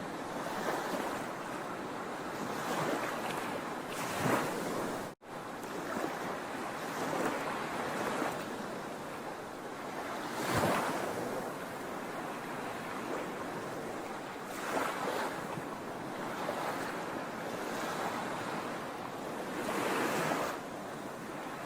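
Sea waves breaking on a shore: a continuous wash of surf with louder surges every few seconds. The sound drops out for a split second about five seconds in.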